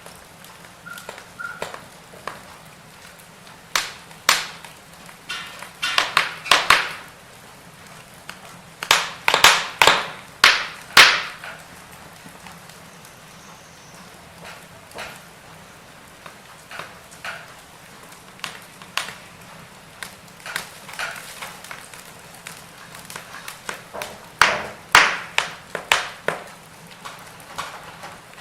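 Firewood burning, crackling with irregular sharp pops in clusters over a soft steady hiss of the fire.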